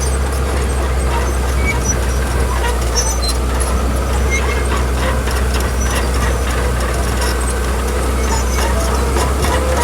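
Heavy diesel construction machinery running steadily, a loud constant low engine drone with scattered small clicks and knocks over it.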